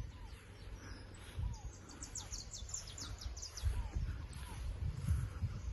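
A songbird singing a quick run of about a dozen short, high, downward-sliding notes starting about a second and a half in, with a few softer lower calls around it, over low rumble of handling and wind on the microphone.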